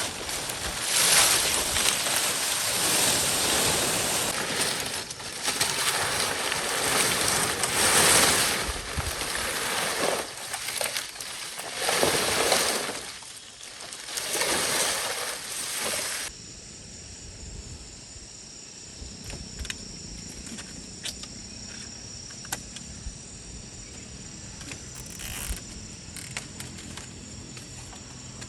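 Loud rushing noise that swells and fades for the first half, then an abrupt change to a quieter background of insects, likely crickets, trilling steadily, with a few faint clicks.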